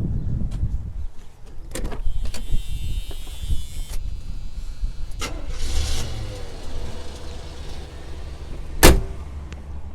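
1977 Chevrolet Impala 9C1's V8 being started: the starter cranks with a whine for about a second and a half, the engine catches about five seconds in and settles into a quiet, steady idle. A single sharp knock near the end.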